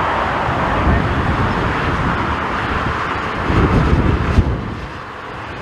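Jet airliner noise mixed with strong wind buffeting the microphone. The jet's hiss drops away about four seconds in, leaving low gusts of wind on the microphone.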